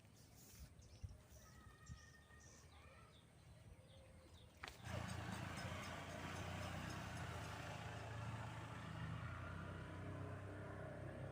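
Faint bird chirps over quiet outdoor background. About halfway through, a sudden click is followed by a louder, steady motor-like running hum.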